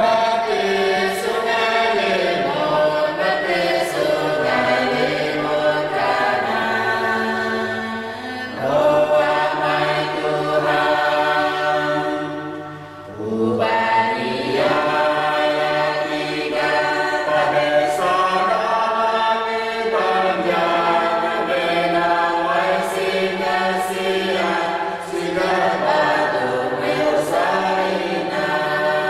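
A group of voices singing together in chorus, long held phrases with a short break about halfway through.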